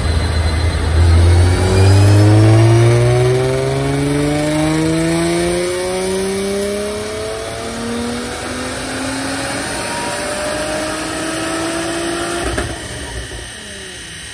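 Supercharged Nissan 350Z's VQ35DE V6 making a full-throttle dyno pull, its note climbing steadily in pitch through the revs for about twelve seconds, with a high whine rising alongside. Near the end the throttle shuts suddenly and the engine drops away as the rollers coast down.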